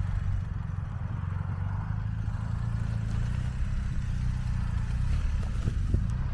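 BMW R 1250 GS boxer-twin engine running steadily at low revs while the heavy bike is being turned around on a steep slope.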